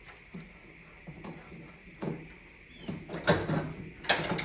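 Scattered clicks and knocks of a clothes dryer's parts being unhooked and handled by hand during disassembly, with the loudest clusters about three seconds in and near the end.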